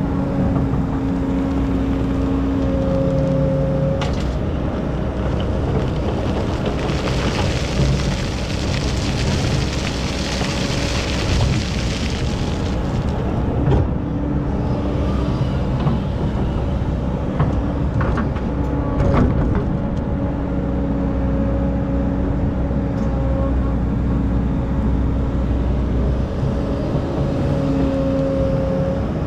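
Excavator's diesel engine running steadily, its note swelling and easing several times as the machine works. A hiss runs from about seven to twelve seconds in, and a few sharp knocks come around fourteen and nineteen seconds in.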